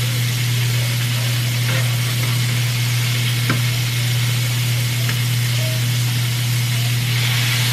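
Sausages frying in hot grease in a frying pan, a steady sizzle throughout, over a constant low hum. A light click about three and a half seconds in.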